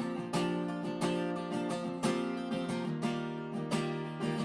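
Acoustic guitar strumming chords in a steady rhythm, an instrumental passage of a worship song between sung lines.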